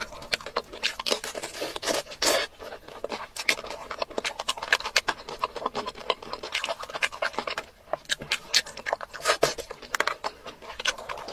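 Close-miked ASMR eating sounds: wet chewing and lip smacking of a person eating soft fish in a thick spicy sauce, a dense run of small sticky clicks with a few louder smacks.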